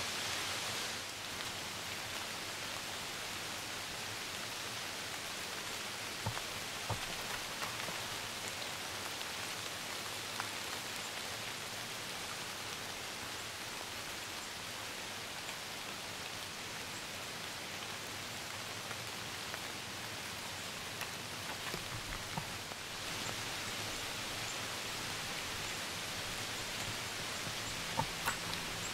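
Steady rain falling on the leaves of the woods, with scattered faint drips and ticks.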